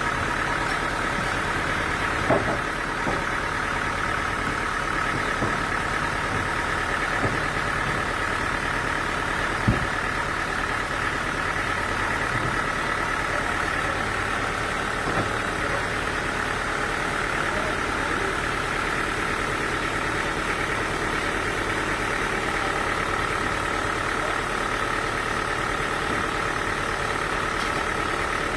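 Engine running steadily at a constant speed, with a few short knocks now and then.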